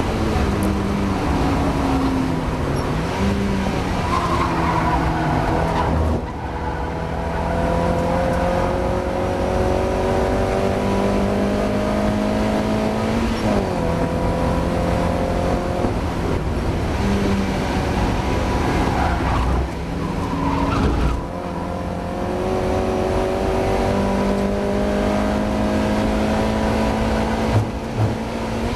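Mazda MX-5 four-cylinder engine heard from inside the car at racing speed, repeatedly pulling up through the revs with sharp drops at gear changes and brief lifts off the throttle around 6 and 20 seconds in. The car is racing with a misfire.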